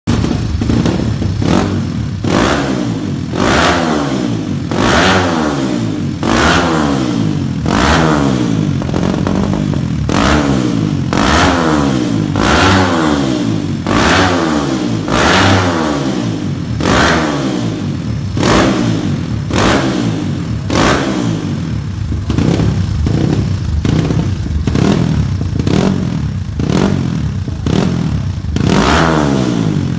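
Kawasaki KLX dirt bike's single-cylinder four-stroke engine revved in repeated throttle blips through an AHRS Powerbooms aftermarket exhaust. Each rev rises and falls in pitch, about one every second or so, and the blips come shorter and quicker in the later part.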